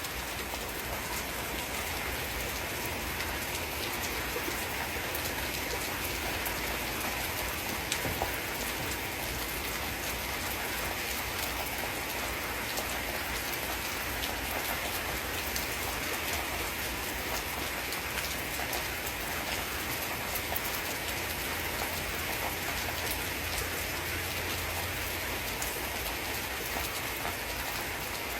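Rain falling steadily, a dense, even patter of drops with no thunder. A single sharp click about eight seconds in.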